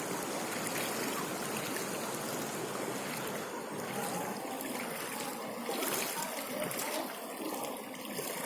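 Floodwater running steadily, a continuous rush of water.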